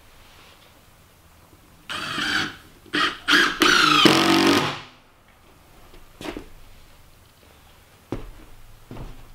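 An animal crying out several times in wavering, pitched calls: a short cry, two brief ones, then a longer call that falls away at the end. A few faint knocks follow.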